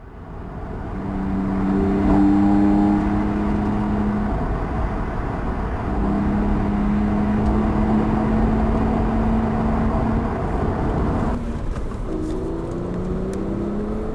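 BMW 1 Series coupe driving, its engine note held at a steady pitch over road noise. Near the end the note rises as the car accelerates.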